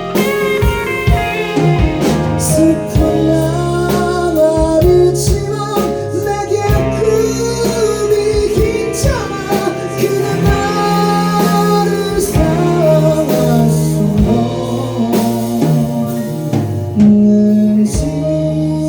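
Live band playing a slow pop-rock song: a melody line over bass, guitar and drums.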